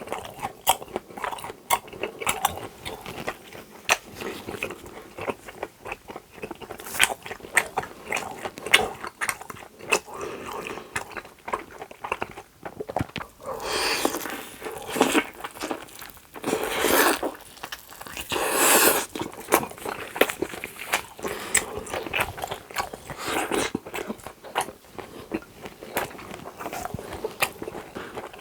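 Close-miked eating: a person chewing and biting food, with many small wet clicks and a few louder, longer bursts of noise between about 14 and 19 seconds in.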